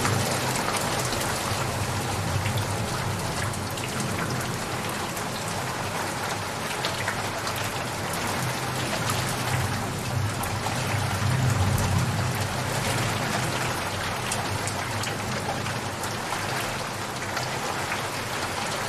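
Steady rain falling, with many individual drops pattering on a surface and a low rumble underneath.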